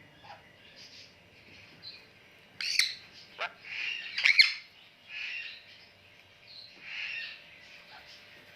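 Pet parrot squawking: a run of harsh, separate calls, the loudest cluster a bit over four seconds in, with softer calls after it.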